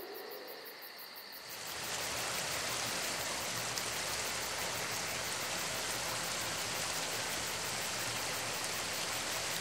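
Steady rushing of running water, a constant even noise that swells in about one and a half seconds in and then holds level.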